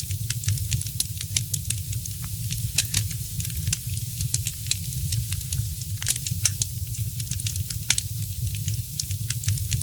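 Wood fire crackling in a fireplace: a constant scatter of sharp pops and snaps, a few louder than the rest, over a steady low rumble.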